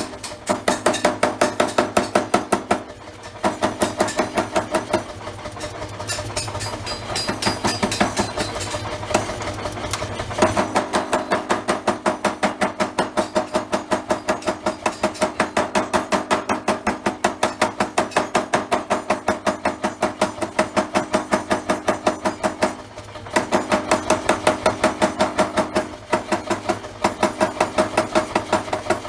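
Mechanical forging hammer striking a steel billet in a fast, steady rhythm of about three blows a second, over the low hum of the machine. The blows stop briefly a few times.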